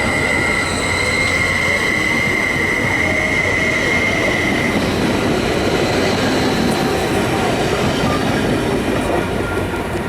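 Train rolling past on the rails with a loud, steady rumble, its wheels squealing in a high steady tone that stops about five seconds in.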